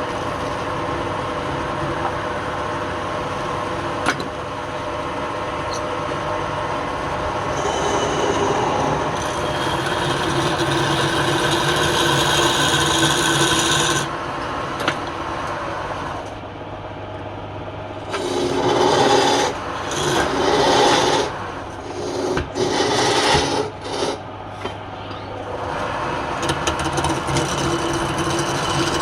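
Wood lathe running with a steady motor hum while a tool scrapes against the spinning wood. Past the halfway point the scraping comes in short, uneven strokes.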